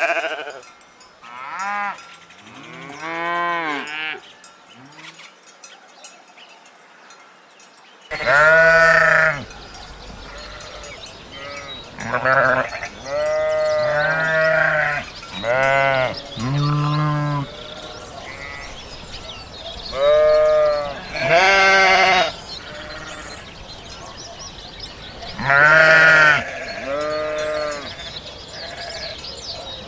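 Sheep bleating over and over, one wavering call after another, some short and some drawn out. About eight seconds in, a steady low background hiss comes in under the calls.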